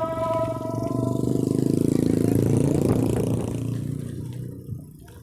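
A motor vehicle's engine passes close by, growing louder to a peak midway and then fading away. Held musical tones carry on from before and stop about a second in.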